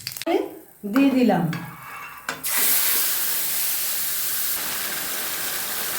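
Hot oil in a kadai breaks into a loud, steady sizzle about two seconds in, as food goes into it.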